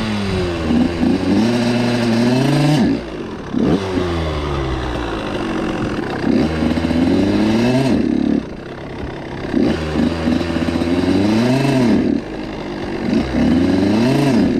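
Suzuki RM85 two-stroke dirt bike engine revving up and down repeatedly as the throttle is worked, its pitch climbing and falling in waves, with the revs dropping sharply about 3, 8 and 12 seconds in.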